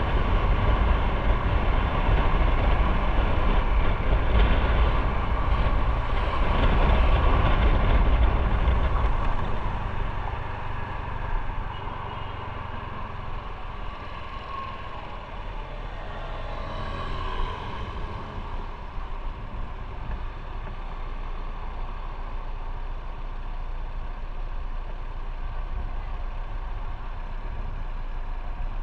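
Motorcycle ride in road traffic: engine and wind noise, loud at first, easing about ten seconds in to a quieter steady running sound, as when the bike slows down.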